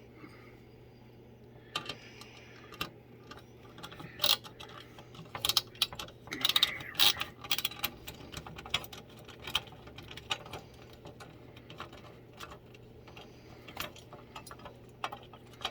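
Screws and metal hardware clinking and rattling as they are handled during assembly of a sewing machine table: a string of irregular sharp clicks, busiest and loudest about five to seven seconds in.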